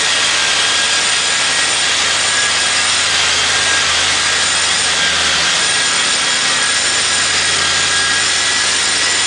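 Supercharged 2004 Ford Mustang Cobra's 4.6-litre V8 running steadily through a new 3-inch Stainless Works X-pipe and cat-back exhaust. It makes a loud, harsh exhaust note with a steady high whine over it.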